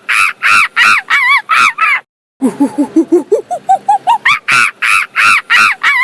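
An animal's calls: short notes climbing in pitch, then a run of loud harsh calls about three a second. The sequence breaks off about two seconds in and starts over the same way.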